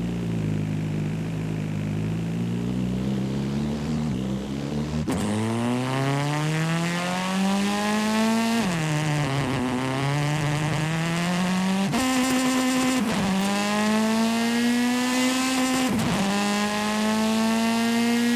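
Video-game car engine accelerating hard: its pitch climbs steadily and drops sharply at each gear change, about four times.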